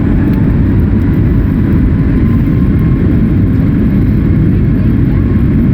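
Boeing 737 MAX 8 heard from inside the cabin during the takeoff run: its CFM LEAP-1B engines at high thrust over a loud, steady, rough low rumble.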